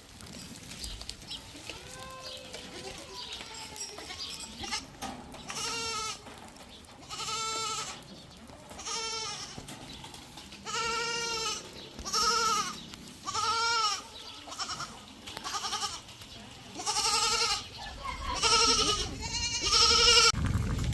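Livestock bleating: about ten separate wavering calls, some overlapping, coming more often toward the end after a quieter first few seconds.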